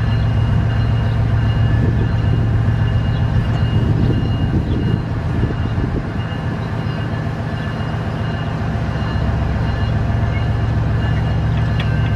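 Freight train rolling by: a diesel locomotive's engine hums steadily over the running noise of the cars, with steady high tones above. A run of short clicks comes near the end.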